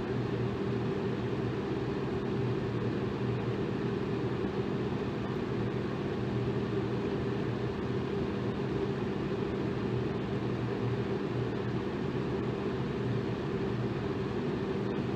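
Electric fan running steadily: an even rush of air with a low hum underneath that never changes.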